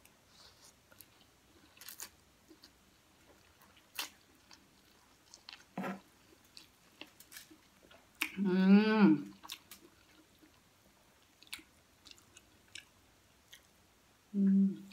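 A person chewing a mouthful of stir-fried pancit noodles close to the microphone, with soft wet clicks and smacks. About eight seconds in comes a loud, wavering hummed "mmm", and a short hum follows near the end.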